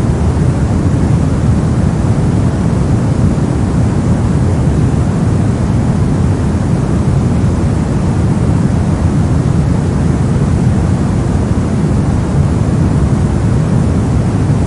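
Steady synthetic soft noise, a deep, even hiss weighted heavily to the low end (closer to brown noise than bright white noise), with no change in level or character.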